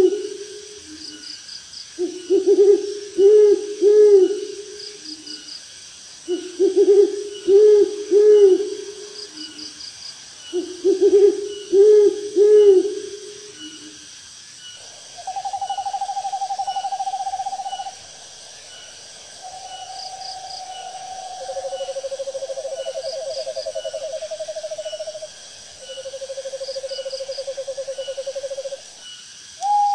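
Owl calls: first four bouts of three or four short, low hoots in quick succession, then from about halfway several long, even trills, each held on one pitch, at a few different pitches. Faint, high insect chirping runs underneath.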